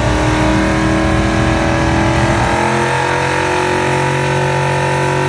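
Car engine running steadily, settling to a lower, even note about two and a half seconds in.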